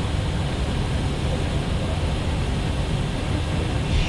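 Steady flight-deck noise of an Airbus A320neo in flight: a low rumble with a hiss of airflow over it.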